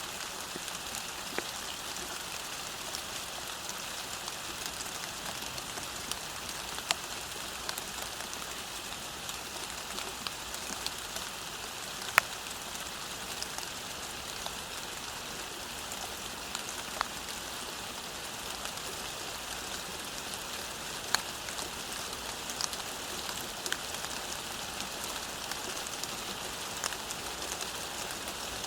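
Steady rain falling on a road, an even hiss with scattered individual drops striking nearby as sharp ticks, the loudest about twelve seconds in.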